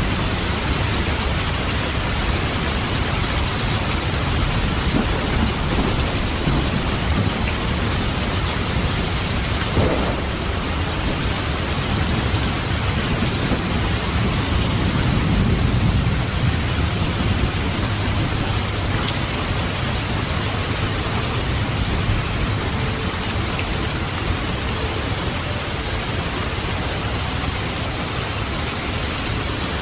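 Heavy rain falling steadily, with a low rumble of thunder swelling about halfway through and one sharp knock about ten seconds in.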